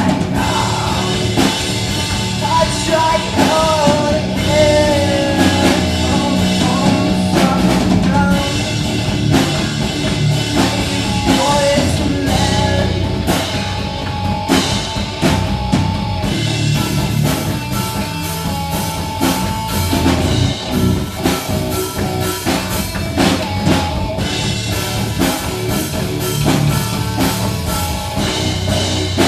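Live rock band playing: drum kit and guitars under a sung melody that bends in pitch through the first several seconds.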